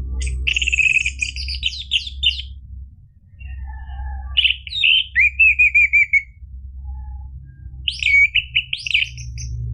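Orange-headed thrush singing in three short phrases of quick, varied high notes with pauses between them; the middle phrase ends in a fast run of repeated notes. A steady low hum runs underneath.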